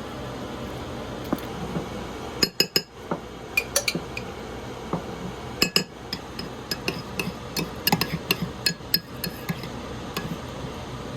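Kitchen clatter: irregular sharp clicks and knocks of utensils and dishes over a steady low hum, starting about two and a half seconds in.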